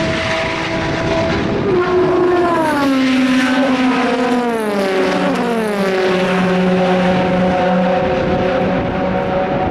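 Endurance racing car engines at full volume. From about two seconds in their pitch falls in several steps, then settles on a steady lower note for the rest.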